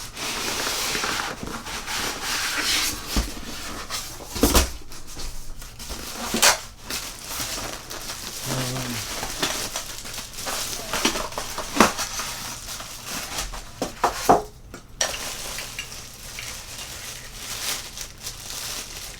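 Cardboard box and packaging being handled as an espresso machine and its accessories are taken out: continuous rustling and scraping, broken by several sharp knocks, the loudest about four and a half seconds in.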